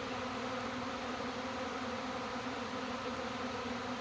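Honey bee swarm buzzing steadily, many bees flying in the air in front of the hives as they settle into a new hive.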